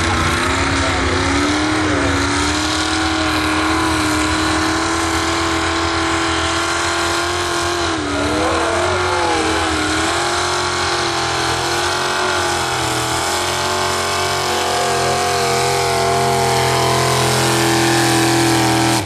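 Pulling truck's engine running hard at high revs under load, held steady with a brief dip in pitch about eight seconds in and climbing slightly near the end.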